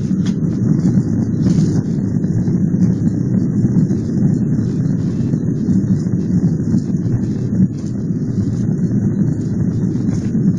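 Steady low rumble inside an airliner cabin as the plane moves along the runway for takeoff: engine and rolling noise, with no clear tones.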